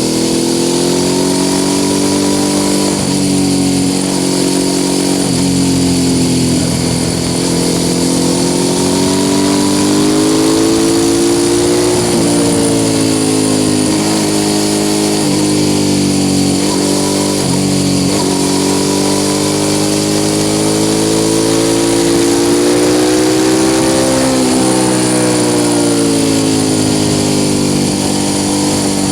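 Suzuki SV650 S V-twin engine through an aftermarket Mivv exhaust, heard onboard while riding; the bike is throttle-restricted to 48 PS. The engine runs steadily under way, its pitch slowly rising and falling as the revs change.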